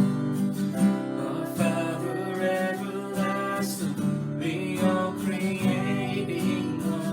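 Acoustic guitar strummed steadily in chords, the instrumental opening of a worship song before the singing begins.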